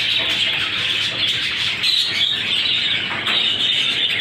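A flock of budgerigars chattering and chirping continuously, many birds at once in a dense, steady twitter.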